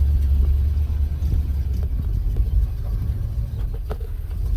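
1970 GMC pickup's engine running with a steady low rumble, with a faint click about four seconds in.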